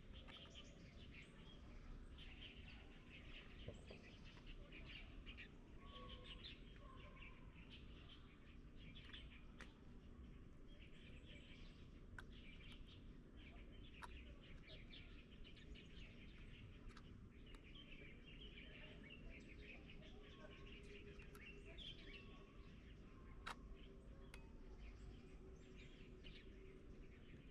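Faint chirping and calling of small birds, on and off, over a steady low background hum, with a few sharp clicks.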